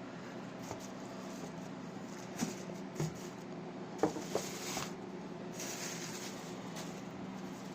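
Light handling sounds: a few soft taps and clicks and a brief rustle, over a steady low hum.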